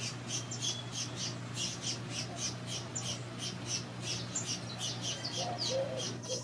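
Birds chirping in a rapid, continuous chatter of short high calls, about four or five a second, over a steady low hum.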